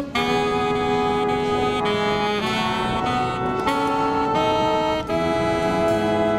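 Marching brass band with saxophones playing a jazzy tune in sustained, full chords that change about every second.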